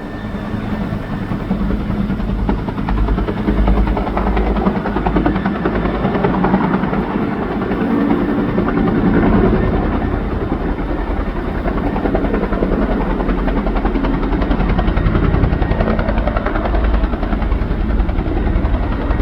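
Firefighting helicopter running loud and close, its rotor making a steady, rapid chopping over the engine.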